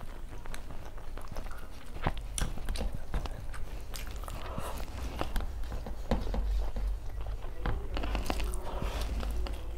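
Close-miked eating sounds: a person chewing and biting food, with many scattered wet mouth clicks, over a steady low hum.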